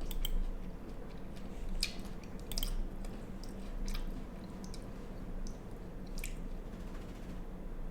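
A person chewing food close to the microphone: soft, irregular mouth clicks and squishes over a steady low hum.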